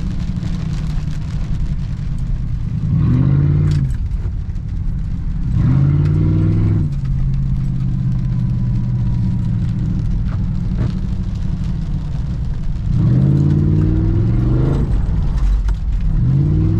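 Rear-wheel-drive V8 car engine running, revving up and falling back three times: about three seconds in, about six seconds in, and a longer double rise near the end.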